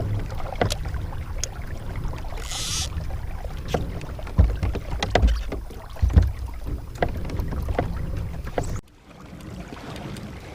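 Kayak under way while trolling: scattered knocks and clicks against the hull, a brief splash-like hiss about two and a half seconds in, over a low wind rumble on the microphone. The sound drops off suddenly near the end.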